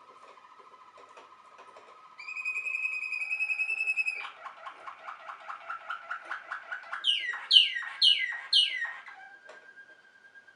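Waterslager (Malinois) canary singing a phrased song: a soft low rolling trill, then a loud held whistle about two seconds in, a fast run of clicking notes, and four loud falling whistles near the end.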